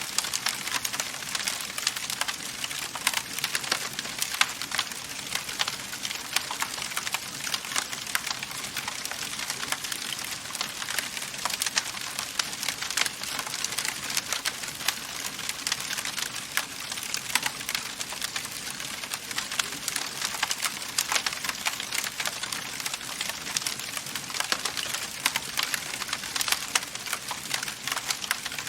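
Wood fire crackling steadily in a fireplace: a constant soft hiss with many quick sharp pops and snaps.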